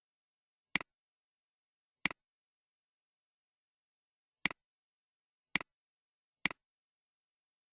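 Five sharp clicks at uneven intervals, each a quick double click (a loud snap followed at once by a softer one), against complete silence.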